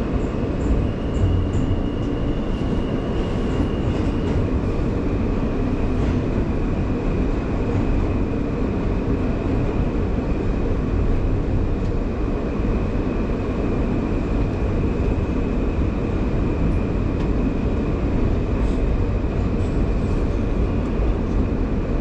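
New York City subway train running between stations: a steady rolling rumble with a thin high whine above it that steps slightly lower in pitch about four seconds in.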